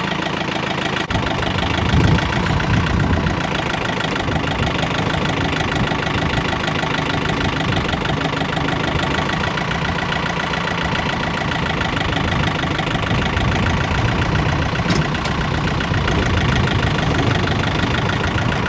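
Engine of the machine lifting a firewood crate, running steadily, with a slight rise in level about two seconds in.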